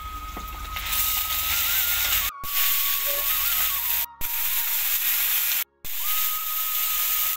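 Cumin and onion paste sizzling in hot oil in a metal karahi: a steady hiss that grows louder about a second in and cuts out briefly three times.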